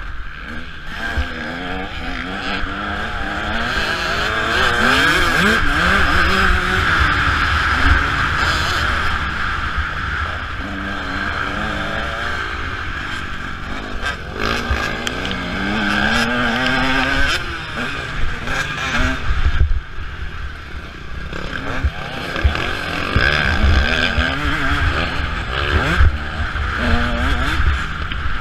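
Motocross bike engine heard from a camera mounted on the bike, revving up and dropping back again and again as the rider accelerates, shifts and rolls off the throttle around the track.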